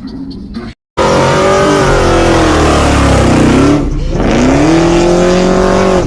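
A car engine revving hard and loud: its pitch slides down, drops briefly about four seconds in, then climbs again and holds high. Music cuts off abruptly about a second in, just before it.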